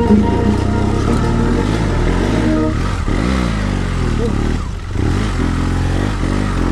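Motorcycle engine running under load, its revs dropping and rising several times as it is ridden. The bike is fitted with long gearing.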